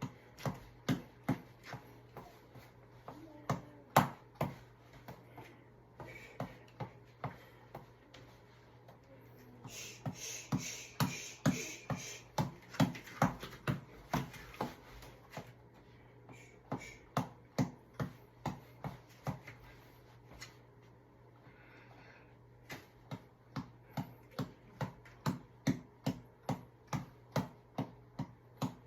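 A run of sharp smacks from a repeated exercise strike, about two a second, stopping briefly a few times and starting again.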